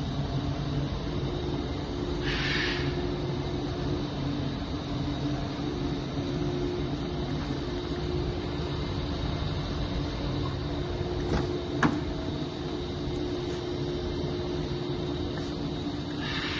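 Toyota Wish's engine idling steadily with a low hum, with a short hiss about two seconds in and a sharp click near twelve seconds.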